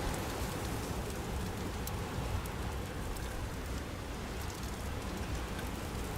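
Steady wind-and-snow noise of a blizzard, an even hiss with faint scattered ticks of precipitation striking.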